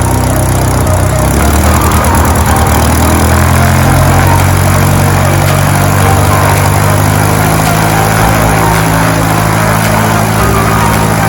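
Cessna 150's Continental O-200 four-cylinder piston engine running steadily, its pitch rising a little about two seconds in.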